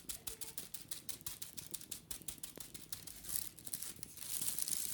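Wicker basket being scratched and brushed while it is cleaned: a rapid run of dry crackly clicks, with denser scrubbing passes a little after three seconds and again near the end.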